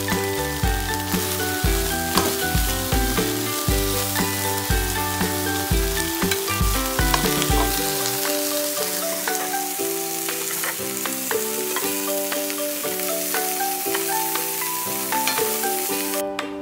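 Beef pieces sizzling in a hot nonstick pan as they are lifted out with metal tongs, with background music playing. The sizzle cuts off suddenly near the end, leaving only the music.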